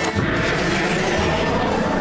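Cartoon action sound effect: a sudden, loud, noisy rush or crash that sets in just after the start and keeps rumbling, laid over dramatic background music.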